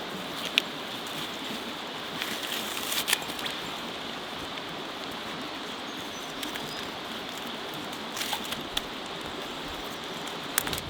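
Creek water running steadily over shallows, with a few sharp clicks here and there.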